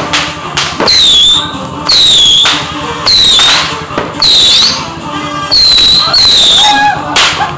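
Whistling fireworks going off one after another, about one a second. Each is a loud, shrill whistle that drops in pitch and then holds, and a few sharp cracks come between them.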